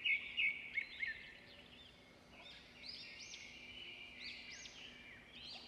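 Birds chirping: quick high chirps at first, then after a short lull a series of arching, up-and-down whistled calls.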